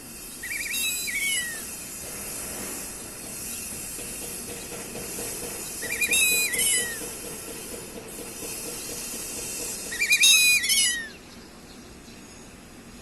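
West Indian whistling duck calling three times. Each call is a quick run of stuttering whistled notes ending in a falling note, and the last call is the loudest. A steady hiss runs underneath.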